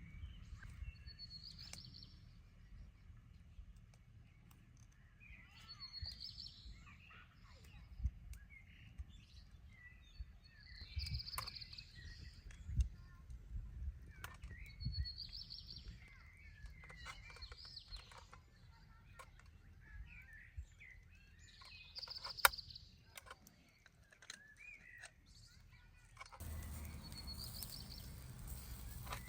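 Birds chirping and calling, short high chirps recurring every few seconds, with scattered light clicks and knocks. About three seconds before the end a steady hiss comes in.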